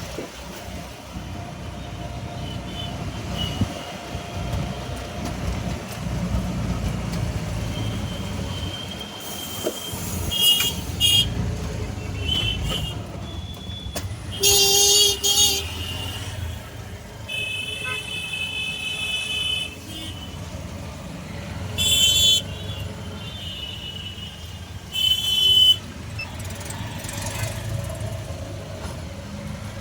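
Street traffic rumbling steadily, with vehicle horns honking several times, the loudest honks about halfway through and again near the end.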